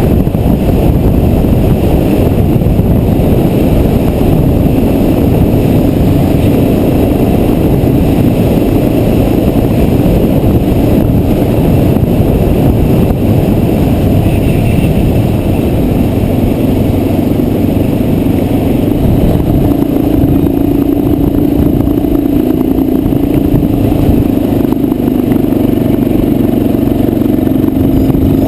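400 cc trail motorcycle engine running continuously on a dirt trail, with a steady engine note that grows stronger in the last third, mixed with clattering.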